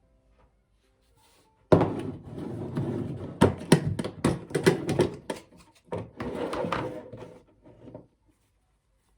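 Household handling noise: a sudden thump, then about six seconds of rustling and scraping with a quick run of sharp knocks and clicks in the middle, dying away near the end.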